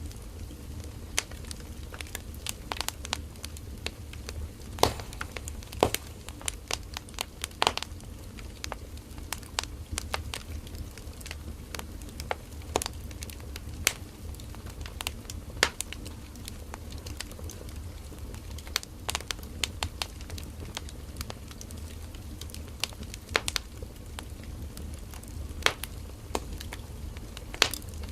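Firewood burning in a campfire: irregular sharp crackles and pops of varying loudness over a steady low rumble of the fire.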